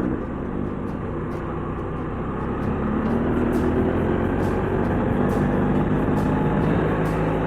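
Motorcycle engine running under way, its pitch rising as it accelerates about two to three seconds in and then holding steady, with wind rush over the bike.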